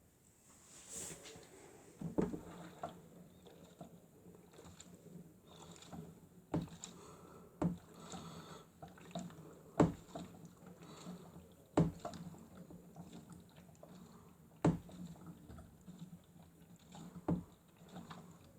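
Miele W1 toy washing machine running its wash cycle: a steady low motor hum with water sloshing, broken by sharp knocks at irregular intervals of one to three seconds.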